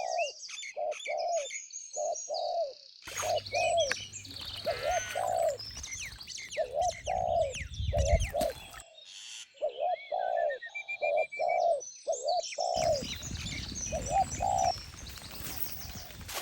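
Birds calling: a low cooing call repeated over and over, with higher chirps and twittering above it. A haze of background noise cuts in abruptly about three seconds in, drops out near the middle, and returns about two-thirds of the way through.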